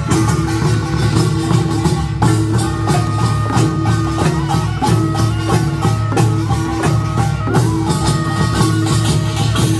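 Korean pungmul (nongak) band playing a fast, dense rhythm on small gongs, a large gong and drums, with a stepped melody line above the percussion.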